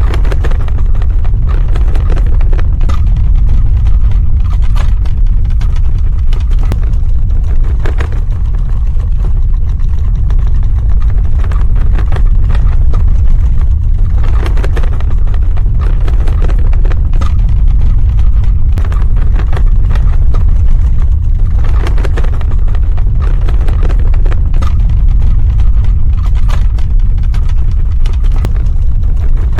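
Earthquake sound effect: a loud, continuous deep rumble with irregular cracking and crackling over it. A few sharper cracks stand out about 8, 15 and 22 seconds in.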